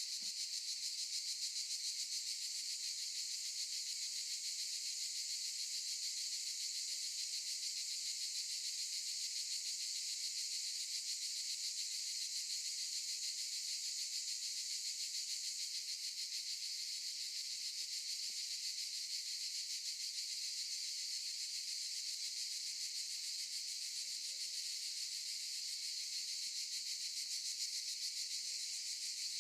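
Cicadas singing in a dense chorus: a steady, high buzz that does not let up.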